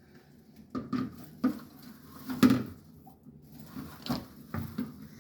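A handful of irregular knocks and clatters, the loudest about halfway through, as a handmade vine Christmas wreath is handled and hung on a door.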